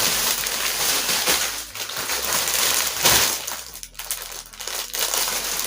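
Plastic packaging crinkling and rustling as it is handled, with a brief lull around two-thirds of the way through.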